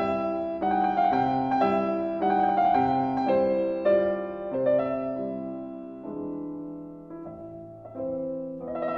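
Background piano music: a slow melody over held chords, softening for a couple of seconds past the middle before the fuller chords return near the end.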